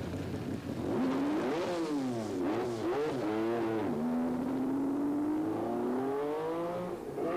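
MG Metro 6R4 rally car's V6 engine, just caught after a push start, revved up and down in quick blips, then rising steadily in pitch as the car pulls away. The engine is ailing; the commentary suspects a component fault or Scottish dust fouling the Metro engines.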